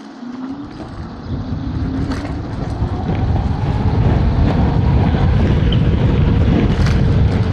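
Electric scooter pulling away and accelerating: a faint motor whine rises in pitch while wind buffeting on the microphone builds to a loud, steady rumble over the first few seconds.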